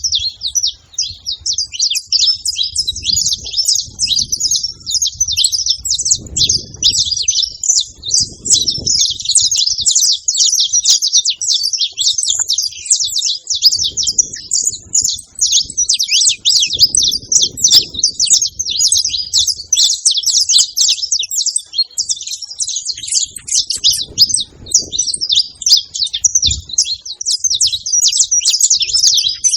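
Saffron finch singing: a continuous run of rapid, high chirps and trills with no pause.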